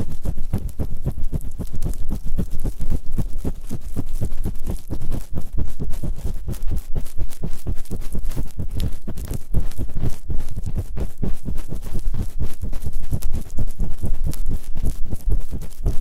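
Fast, continuous scratching and rubbing on the ears of a binaural ASMR microphone, ear-cleaning strokes on both sides, many strokes a second with a deep, muffled thud to each.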